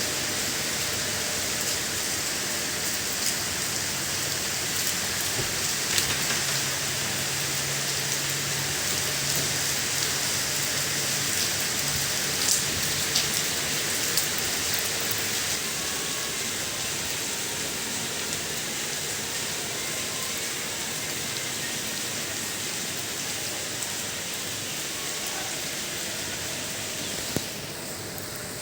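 Steady rainfall hissing, with scattered louder drops ticking on a surface. Near the end a sharp click comes, and after it the rain sounds thinner and quieter.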